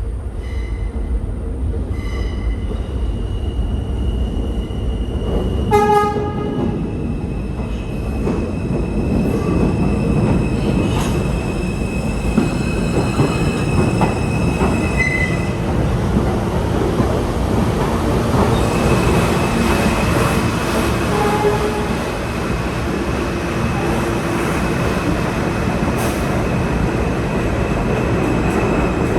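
R160 New York City Subway train running, with a steady low rumble and a steady high whine or squeal. A short horn blast sounds about six seconds in, and the train gets louder over the second half.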